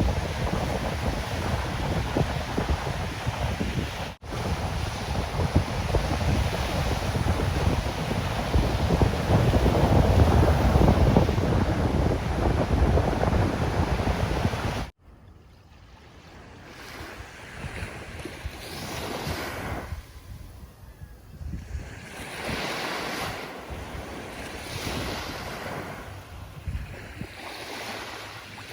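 Ocean surf with heavy wind buffeting the microphone, with a brief dropout about four seconds in. About halfway through it cuts abruptly to a quieter recording of waves washing in and out, swelling every couple of seconds.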